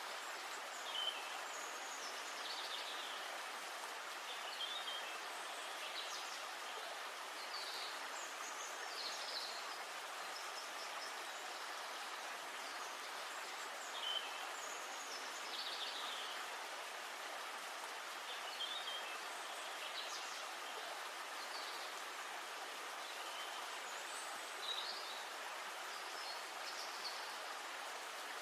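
Birds calling outdoors: short, high chirps repeated every second or two over a steady hiss.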